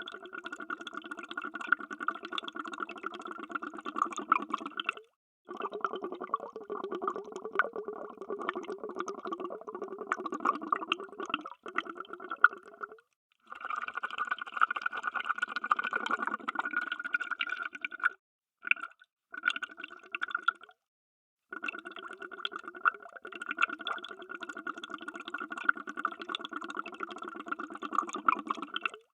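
Underwater bubbling: a dense stream of bubbles, cut off abruptly by several short silences where the recording is spliced and restarts.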